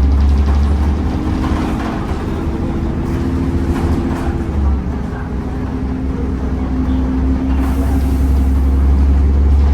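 Temsa Avenue LF 12 city bus with a DAF Euro 5 engine and ZF gearbox, running under way and heard on board: a heavy low hum with a whine that rises in pitch, drops about four and a half seconds in, then rises again.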